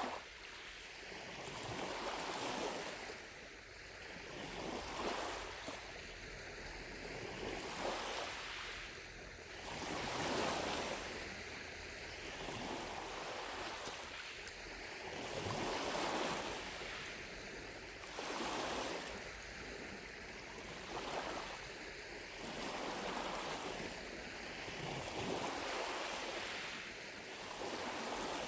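Small lake waves lapping on the shore, each swelling and washing in about every two seconds.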